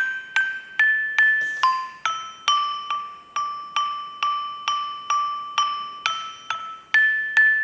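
Saron peking, the small high-pitched bronze metallophone of the gamelan, struck with a mallet in a steady run of single notes about two and a half per second, each ringing briefly before the next. The melody steps between a few pitches and repeats one note several times in the middle.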